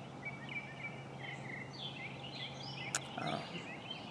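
Several small songbirds chirping and twittering in the background, many short quick calls. A steady low hum lies under them and stops about three seconds in, just after a single sharp click.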